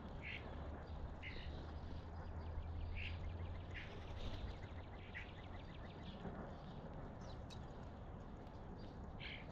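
Birds calling at a feeding spot: short calls every second or so, with a quick run of ticking notes from about two to four and a half seconds in, over a steady low hum.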